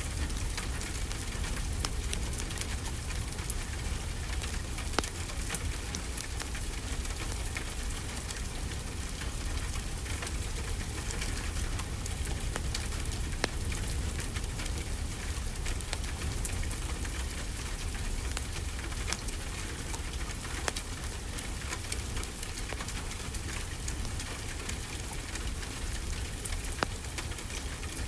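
Steady rainfall, mixed with a crackling fireplace fire that gives scattered sharp pops.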